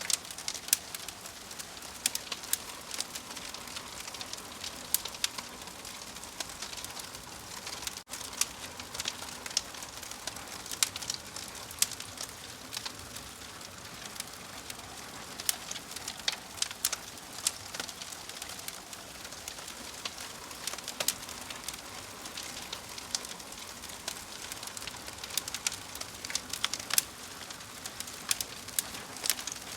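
Wood fire crackling: irregular sharp pops and snaps over a steady soft hiss, with a brief dropout about eight seconds in.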